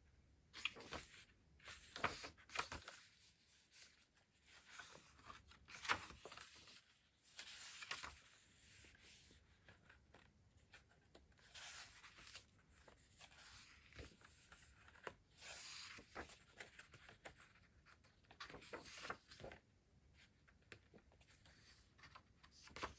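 Soft crinkling and rustling of plastic and paper packaging being handled and opened, in irregular bursts with scattered sharp clicks and taps.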